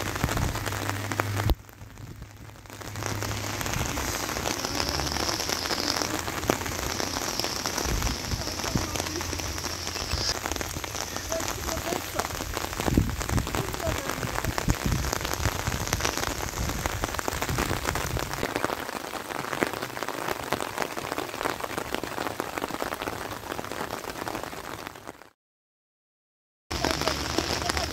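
Steady rain falling on rocky ground. It dips briefly about two seconds in, and cuts out completely for about a second near the end.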